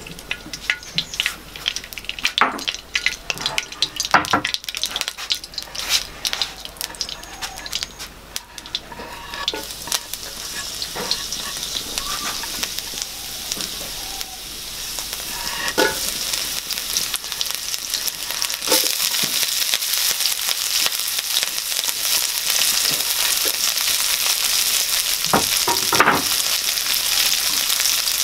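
Oil crackling and spitting in a non-stick wok, turning into a steady sizzle that grows louder from about halfway as chopped ginger and sliced green chillies fry in it. A few knocks along the way.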